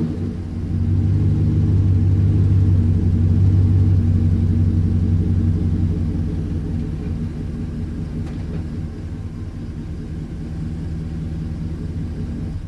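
Chevy Silverado's Gen III 5.3 L Vortec V8 running steadily through a Gibson Dual Extreme cat-back exhaust, a low, even rumble that eases off a little about halfway through.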